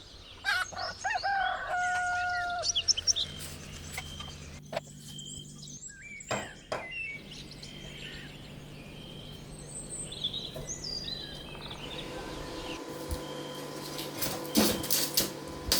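A rooster crowing once near the start, followed by small birds chirping, with a few sharp knocks near the end.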